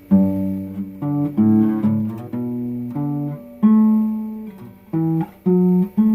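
Acoustic guitar playing an intro of plucked notes and chords, each struck sharply and left to ring out.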